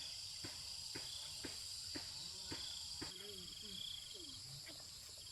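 Steady chirring of crickets or other insects. Through the first three seconds a series of sharp knocks comes about twice a second, and faint wavering voice-like sounds follow after that.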